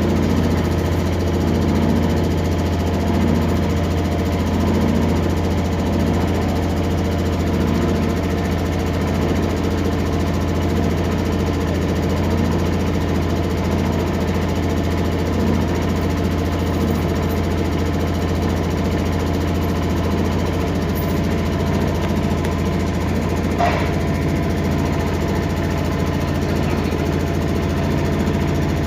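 Boat engine running steadily, an even low drone with no change in speed; one brief sharp chirp cuts across it about three-quarters of the way through.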